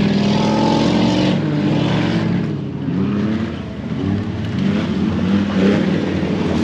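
Off-road race truck engine revving hard under load, its pitch climbing and falling a few times.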